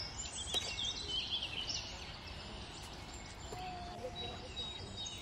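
Small birds chirping, busiest in the first couple of seconds and then sparser, over steady outdoor background noise.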